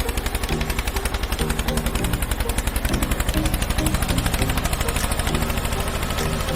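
Tractor diesel engine running close by, its firing pulses forming a rapid, even knock, with a tune playing over it.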